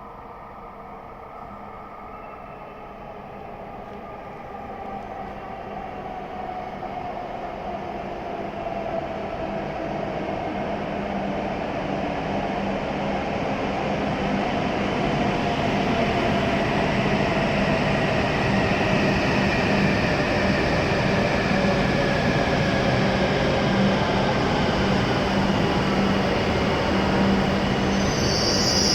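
W7 series Shinkansen train pulling into the platform and slowing, growing louder as it comes in. Its running whine falls steadily in pitch as it brakes. A high squeal starts near the end.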